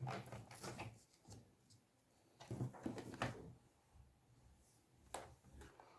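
Knife blade prying and scraping at the plastic hinge-side pieces of a laptop's base: faint clicks and scrapes in short bursts, one at the start, one around two and a half to three and a half seconds in, and a single click about five seconds in.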